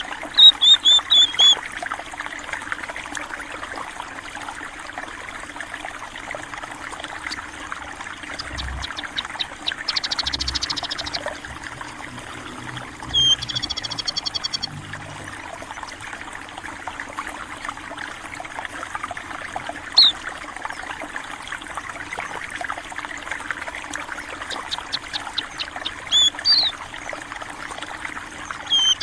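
Stream water trickling steadily, with scattered short high chirps and rapid trills from small birds: a quick run of chirps right at the start, trills around a third and half of the way through, a single chirp in the middle, and more chirps near the end.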